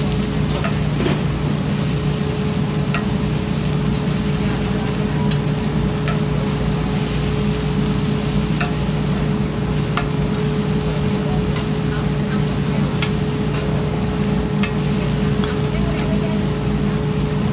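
Oyster omelette frying on a flat griddle: a steady sizzle with occasional light clicks, over a steady low hum.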